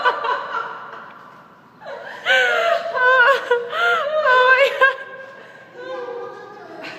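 A person laughing in high-pitched, squealing bursts. The laughter fades out in the first second, comes back louder about two seconds in for a few seconds, then dies down to a quieter voice.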